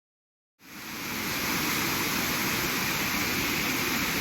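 Steady rushing of a waterfall, fading in about half a second in after a cut from silence.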